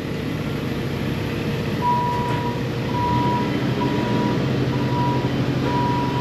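Engine running steadily, with a high electronic beep repeating about once a second from about two seconds in.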